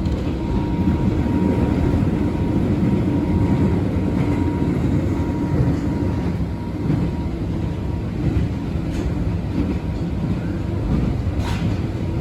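Abukuma Express 8100 series electric train running between stations, heard from inside the car: a steady rumble of wheels on rail with a faint whine in the first half. There is a single sharp click near the end.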